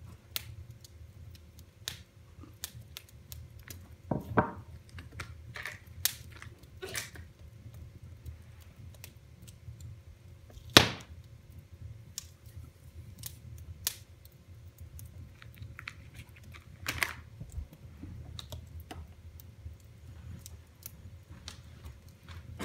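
Wood fire in a fireplace crackling: irregular sharp snaps and pops, the loudest about eleven seconds in, over a low steady rumble.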